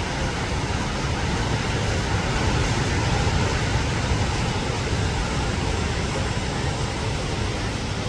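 Dhuandhar Falls, a large waterfall, rushing steadily: a dense, even wash of falling water with no break or change.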